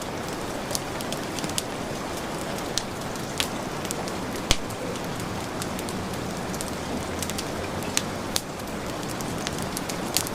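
Steady heavy rain mixed with a wood fire crackling: a constant hiss of rain with sharp pops and snaps of burning logs scattered irregularly, one louder pop about halfway through.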